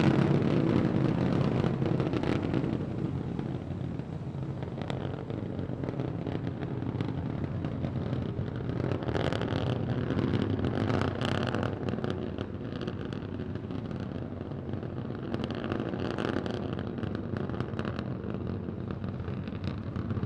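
Starship SN15's three Raptor engines burning during ascent: a steady, deep rocket rumble.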